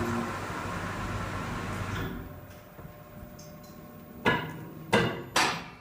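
Sheet-metal flashing being formed in a workshop. A steady run of machine noise lasts about two seconds, then three sharp metallic knocks about half a second apart near the end.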